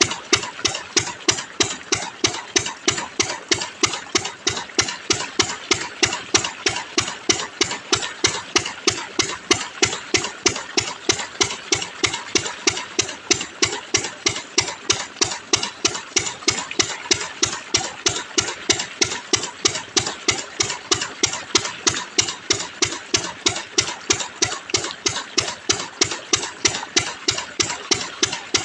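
An engine running steadily at idle with an even, rapid beat of about four pulses a second.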